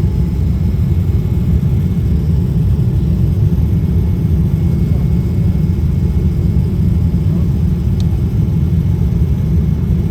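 Steady low rumble of Boeing 787 cabin noise, engines and airflow heard from inside the cabin. A brief click about eight seconds in.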